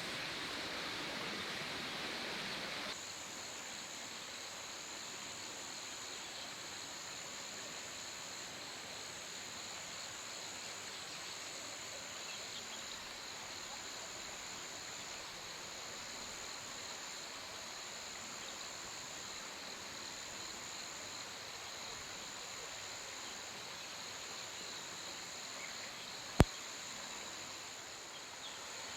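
Insects trilling at a high pitch in long pulses about a second and a half each, over a steady hiss that drops off suddenly about three seconds in. One sharp click near the end.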